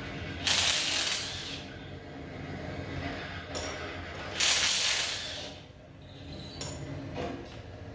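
Two short bursts of hissing, each about a second long, a few seconds apart.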